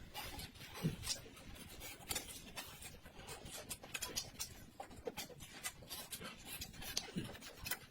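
Scattered soft clicks and taps of eating at a table, such as chewing and utensils touching a bowl, with a couple of faint low thuds.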